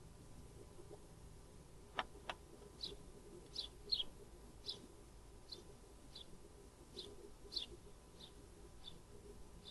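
Two sharp clicks about two seconds in, then a small bird chirping over and over: short, high downward chirps about every half second, faint.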